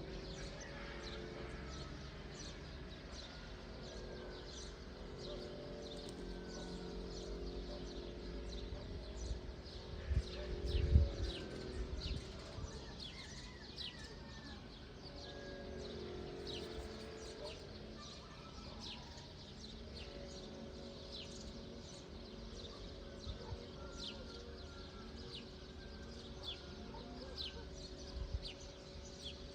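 Small birds chirping outdoors, a steady series of short, high, falling chirps over a low background hum. A few low thumps about ten seconds in.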